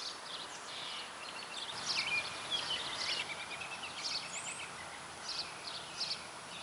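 Birds chirping outdoors: many short, high chirps and trills, some in quick runs, over a faint steady hiss.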